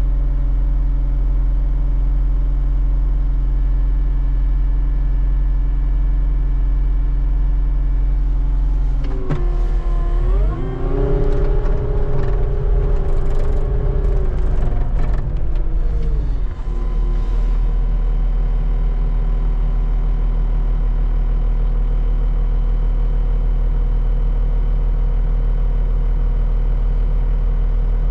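Skid steer engine running steadily, then revving up about a third of the way in and holding the higher speed for about seven seconds, with clanks and knocks over that stretch, before dropping back to a steady run.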